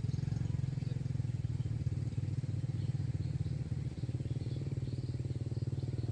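Small motorbike engine running steadily with a fast, even putter.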